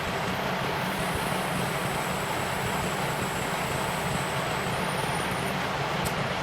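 Steady machine running noise, even and unchanging, with a faint high whine above it and a single sharp click near the end.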